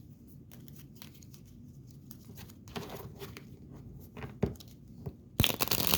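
Tarot cards being handled and shuffled: scattered soft clicks, then a dense, rapid run of shuffling about five seconds in.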